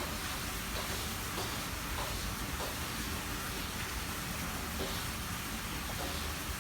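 Steady hissing noise, with a few faint short ticks scattered through it.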